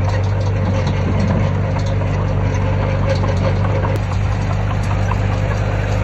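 Heavy diesel engine of earthmoving machinery running steadily with an even, deep hum.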